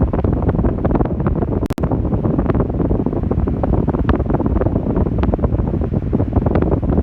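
Arno Ultra Silence Force electric fan running, its airflow buffeting the microphone with loud, steady wind noise.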